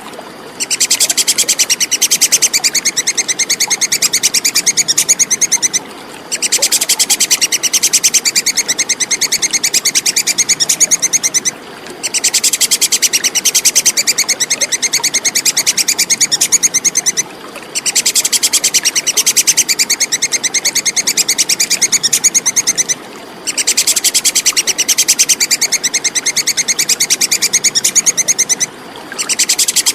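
Tupai kekes squirrel giving its rapid, high-pitched chattering call. The chatter comes in bouts of about five seconds, broken by short pauses roughly every six seconds like a repeating loop. A steady hiss of running water lies beneath it.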